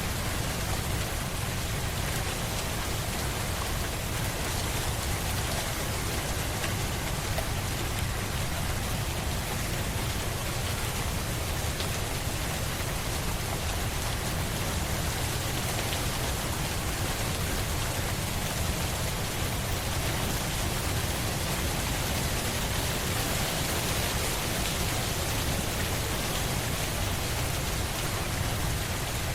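Steady rain falling on a surface, a constant even hiss with no breaks or distinct drops standing out.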